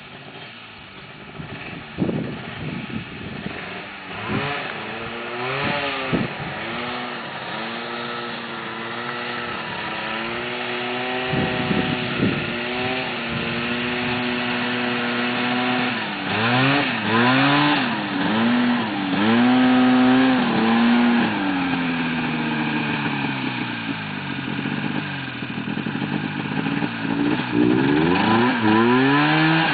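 1972 Raider snowmobile's engine revving up and down over and over as it is driven across grass, growing louder about halfway through.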